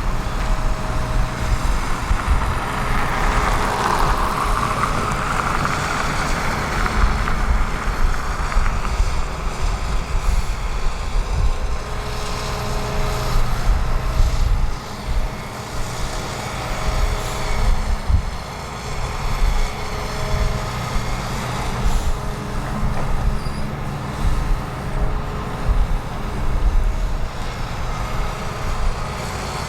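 Heavy diesel excavators and a truck running at work, a steady low engine note with short faint whines coming and going. A hiss swells and fades a few seconds in.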